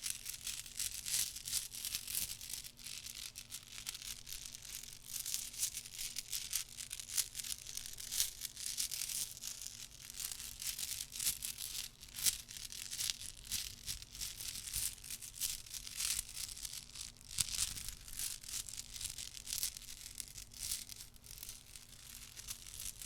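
A dense, unbroken run of soft, rapid clicks and scratches from a small object handled close to the microphone.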